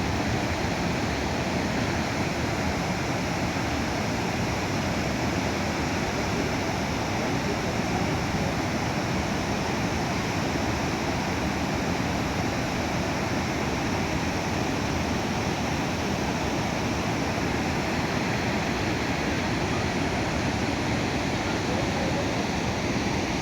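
Waterfall roaring steadily, an even wash of falling water that holds constant throughout.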